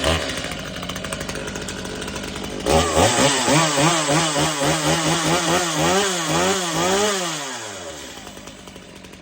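Stihl MS250C two-stroke chainsaw engine running just after a cold start on the choke. From about three seconds in it is revved over and over, its pitch rising and falling, and then it drops away about eight seconds in.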